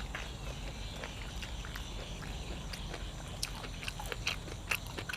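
A person chewing and biting food, heard as irregular sharp crunches and wet mouth clicks over a steady low hum.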